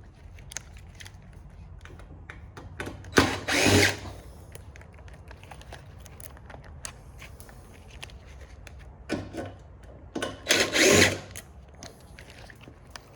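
Power drill run in short bursts to back out screws: one burst about three seconds in, then a few more close together near the end, with light clicks of handling between them.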